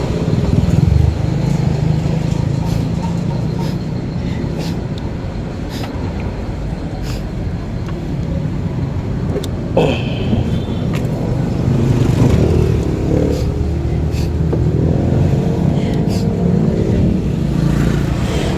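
A car engine running steadily, with scattered light clicks and a short high squeak about ten seconds in.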